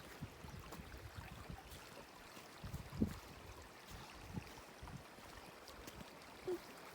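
A babbling brook, a steady faint rush of running water, with a few soft low thumps (the strongest about three seconds in).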